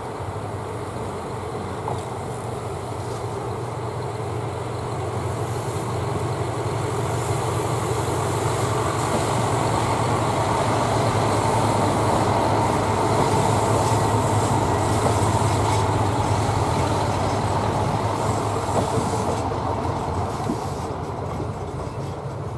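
Two-car diesel railcar (KiHa 185 series) running along the track, its engines droning and its wheels rumbling on the rails. The sound swells to its loudest about midway and then slowly fades as the train moves away.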